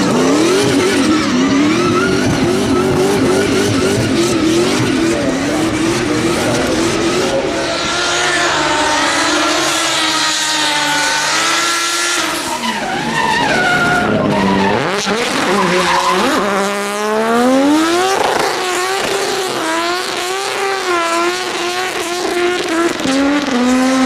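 Racing car engine revving hard, its pitch swinging up and down again and again, with a long rising run about two-thirds of the way through, over tyres skidding and squealing.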